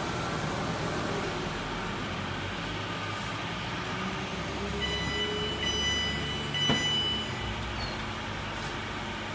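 London Northwestern Railway Class 350 Desiro electric multiple unit pulling into the platform and coming to a stand, with a steady rumble. High tones sound from about five to seven seconds in, and a single clunk comes near seven seconds.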